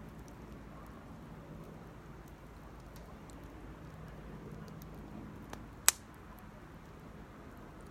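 Campfire burning with scattered faint crackles and one sharp, loud pop about six seconds in.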